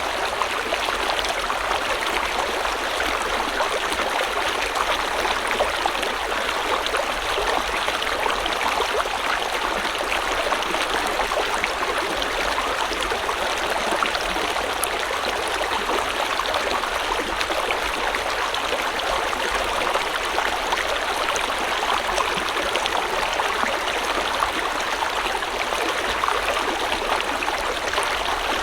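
River water flowing steadily over rocks: an even, unbroken rushing with a fine trickling texture.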